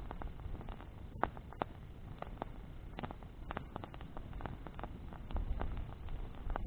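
Bonfire of burning branches crackling, with irregular sharp pops and snaps over a steady hiss of the flames. A low rumble grows stronger near the end.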